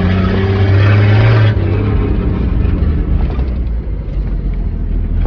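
Old carbureted truck engine running. It revs slightly, then eases off sharply about a second and a half in and settles into a lower, rougher running note.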